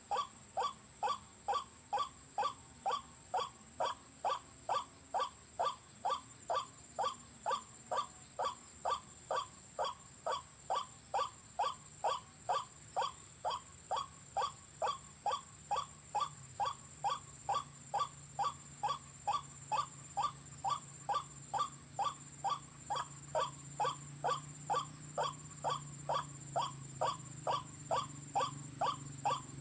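White-breasted waterhen call played back from a bird-call player as a lure: one short call repeated in an unbroken, machine-even rhythm, a little over twice a second.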